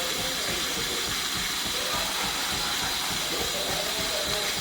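Steady hiss of steam from a Philips 3200 espresso machine's LatteGo milk frother, as milk is frothed.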